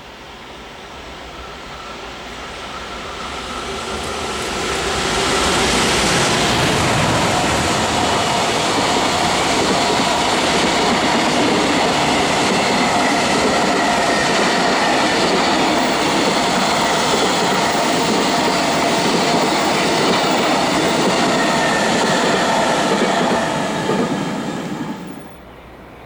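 High-speed freight train approaching and passing at speed, growing louder over the first few seconds, then a long steady rush and rattle of wagons over the rails. The noise drops off suddenly near the end as the last wagon goes by.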